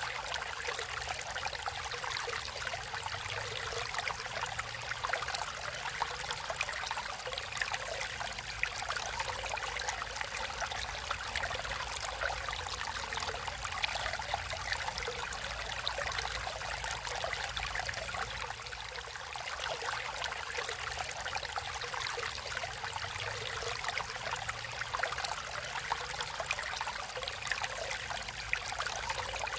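Stream water flowing and trickling steadily, with a fine bubbling texture.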